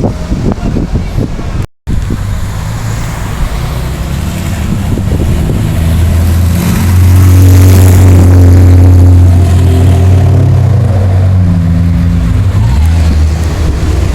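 Loud vehicle engine running close by at a steady pitch, growing louder to a peak about halfway through, then holding. There is a brief dropout about two seconds in.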